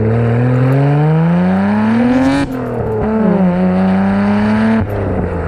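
Nissan Skyline R32 GT-R's RB26 twin-turbo straight-six, breathing through a full Tomei titanium exhaust, pulls hard with revs climbing steadily for about two and a half seconds. The revs then drop sharply at a gear change and hold steadier at lower revs.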